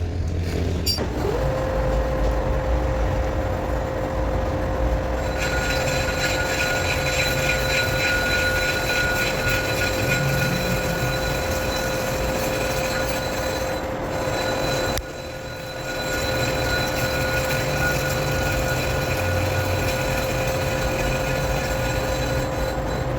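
Metal lathe running with a steady whine that rises into place about a second in; from about five seconds in a higher squeal joins, likely the tool cutting steel, and the sound drops briefly about two-thirds of the way through before resuming.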